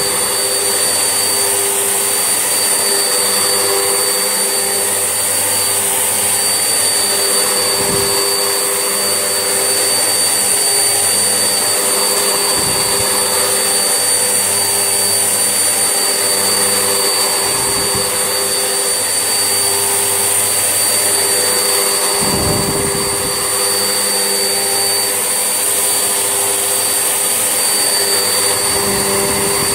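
Vax Essentials vacuum cleaner running steadily with a high motor whine, hoovering, with a few short low thuds as it is pushed about.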